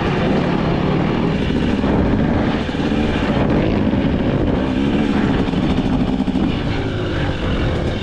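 KTM 300 XC two-stroke dirt bike engine running steadily, its pitch wavering up and down with small throttle changes.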